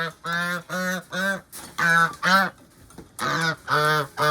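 Domestic geese honking: a run of short, nasal calls, about nine in three quick bunches.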